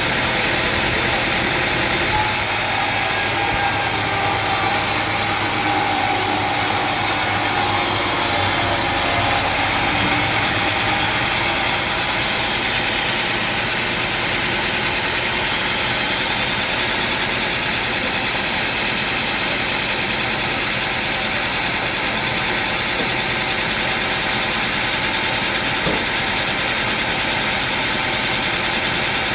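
Sawmill machinery engine running steadily. From about two seconds in to about nine and a half, a higher hiss and a whine join the drone, then stop suddenly.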